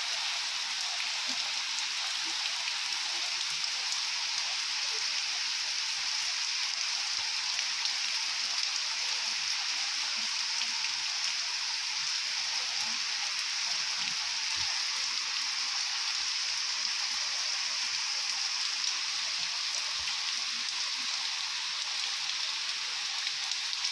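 Heavy rain falling steadily, a dense even hiss of rain on surfaces with scattered faint drips.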